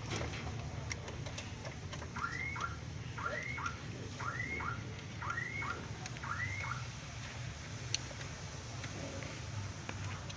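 A bird calling five times in a row, each call a rising-and-falling note with a short falling note after it, over a steady low hum.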